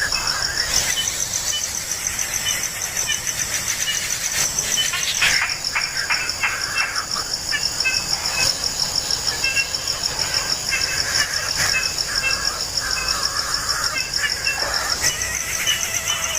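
Insect trilling at a high pitch, a fast even pulsing that breaks off briefly a few times, with short faint chirps and a few clicks under it.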